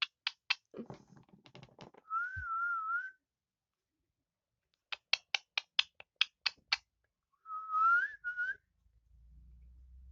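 Pet parrot whistling twice, a wavering warble and later a rising whistle with a short second note, between runs of sharp clicks.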